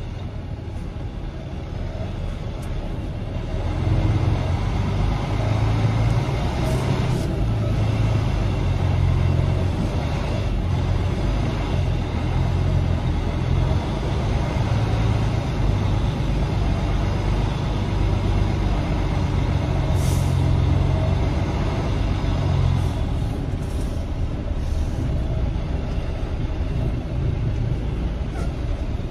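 Semi truck's diesel engine running, heard from inside the cab. Its low drone rises about four seconds in and holds under load, with a short hiss about twenty seconds in.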